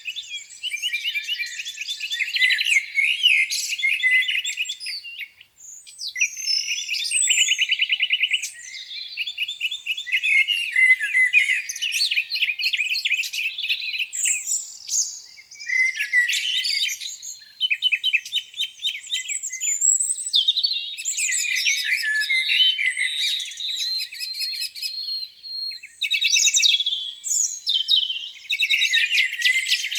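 Several songbirds singing at once in a spring dawn chorus: overlapping rapid trills, chirps and whistled phrases that follow one another without a break.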